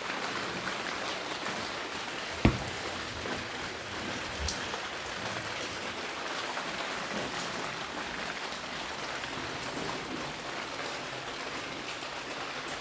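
Steady rain falling on the tarpaulin over an unglazed roof-window opening, heard from inside the room. One sharp knock comes about two and a half seconds in.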